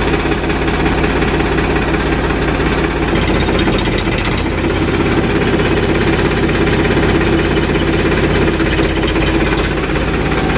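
Powertrac Euro 50 tractor's diesel engine running steadily, its firing pulses coming as an even, rapid beat.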